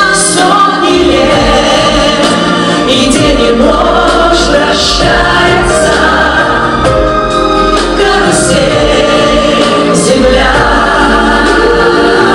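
Live music: a choir of several voices singing together over instrumental accompaniment with a steady low bass.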